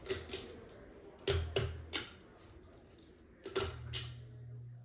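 Ceiling fan pull-chain speed switch clicking several times in quick groups, with the fan motor's low hum shifting as the switch steps between settings.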